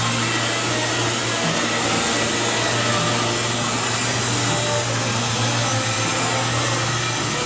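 A steady, loud mechanical rushing noise with a constant low hum, unchanging throughout.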